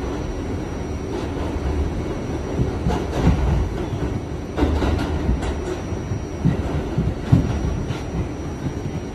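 Kawasaki R68A subway train running: a steady low rumble with scattered sharp clacks from the wheels passing over the track.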